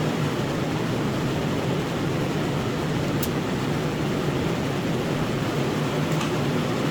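Steady machine noise with a low hum that holds at a constant level throughout.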